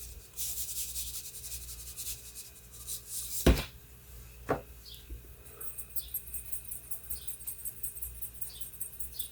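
Seasoning shaken from a spice shaker over cubed raw beef: a rapid, scratchy rattle of granules. It is followed by two knocks about a second apart as the shaker is set down.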